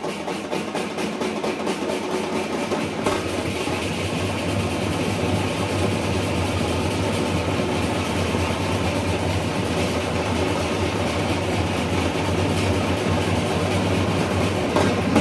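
A heavy diesel engine running steadily, growing gradually louder.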